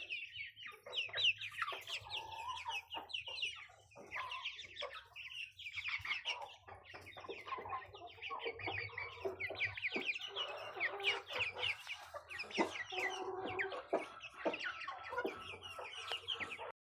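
A flock of chicks peeping continuously, many high, short, falling peeps overlapping, with some lower clucking notes mixed in from about halfway through. Scattered sharp taps, typical of pecking, run through it as they feed on squash.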